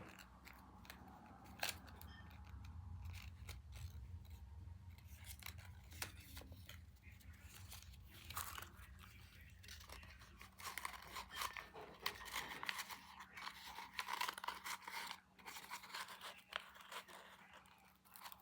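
Faint handling of small craft materials: scattered snips, clicks and rustles as they are cut and worked by hand.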